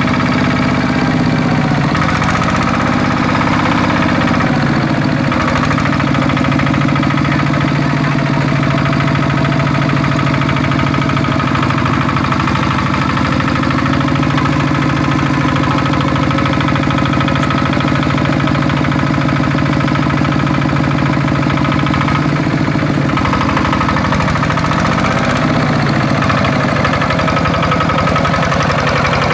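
Small Kubota tractor's diesel engine running steadily, its pitch rising and falling briefly near the start and again about 23 seconds in.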